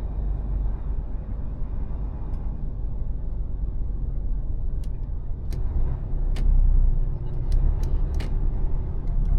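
Mercedes Actros truck driving: a steady low rumble of engine and road, with a few sharp, irregular clicks or knocks in the second half.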